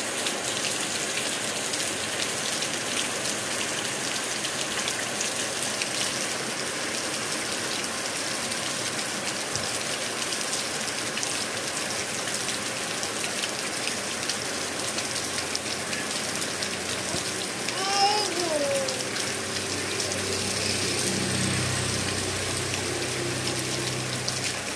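Steady rain falling and pattering on surfaces, a dense even hiss of drops. About eighteen seconds in comes a brief falling squeak-like call, and toward the end a low hum joins the rain.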